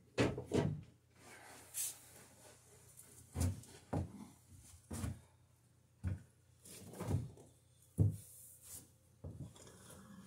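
Hand plane worked along a wooden boat rail: about nine short, irregular strokes and knocks with brief shaving hiss, taking saw marks off the rail's underside.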